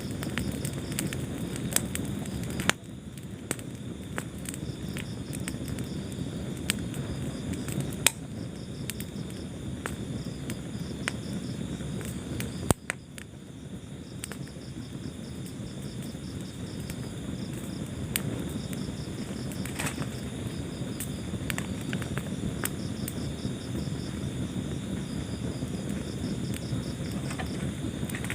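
Wood fire burning with a steady low rush and scattered sharp crackles and pops, a few louder snaps among them. Crickets chirp steadily in rapid pulsed trains behind the fire.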